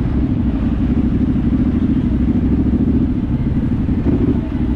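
Dirt bike engine running steadily with a low, even pulsing and no clear revving.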